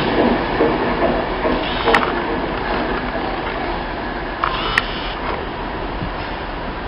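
Onboard running noise of a Class 390 Pendolino electric train, a steady rumble that slowly grows quieter, with a couple of sharp clicks.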